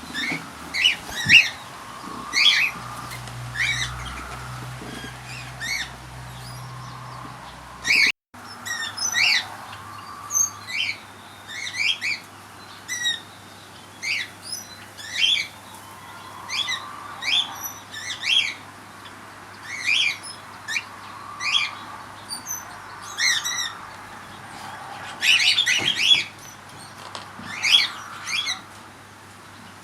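Aviary birds calling: short, sharp chirps repeated about once a second, sometimes two or three close together, with a cluster of several overlapping near the end.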